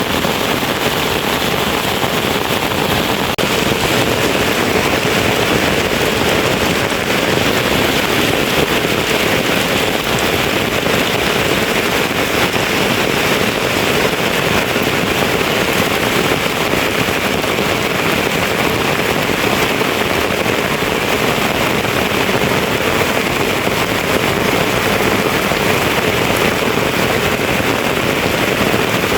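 Steady, loud rushing of water: an even hiss with no breaks or distinct events.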